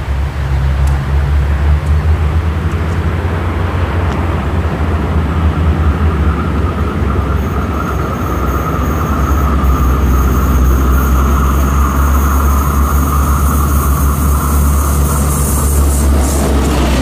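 Approaching Stadler diesel railcar: a steady low engine rumble, joined about halfway through by a rising hiss and a high whining tone from the wheels on the rails as it nears.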